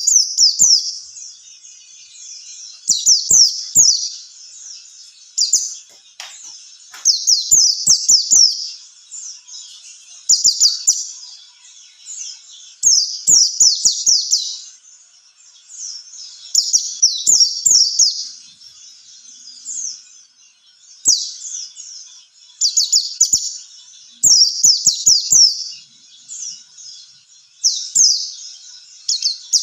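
White-eye (pleci) singing: bursts of rapid, high-pitched twittering, a new phrase every two to three seconds, with a few faint clicks in between.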